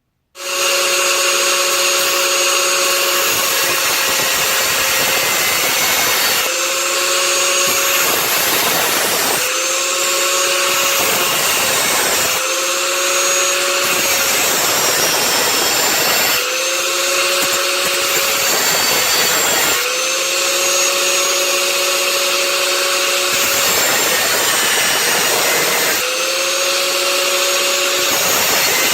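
Electric grinder cutting through the hardened steel of an old circular saw blade: a steady gritty hiss of disc on steel over a motor whine. The whine drops away while the disc bites into the cut and climbs back up each time it eases off, several times over.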